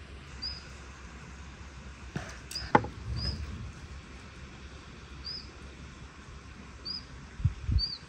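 A small bird giving a short, high chirp about six times, a second or two apart, over a steady low rumble. A sharp knock sounds a little before the middle, louder than anything else, and two soft thumps come near the end.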